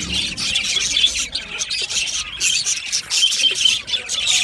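Budgerigars chirping and warbling in a dense, unbroken run of high-pitched chatter.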